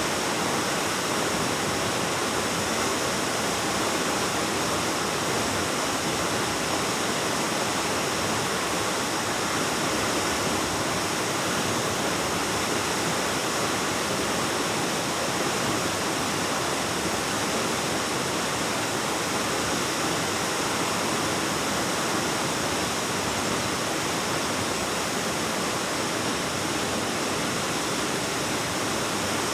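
Waterfall plunging into a pool, a steady rush of falling water echoing off the cave rock.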